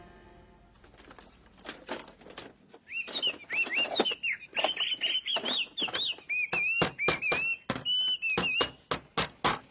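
A bird chirping in quick repeated phrases over a string of sharp knocks that come faster toward the end.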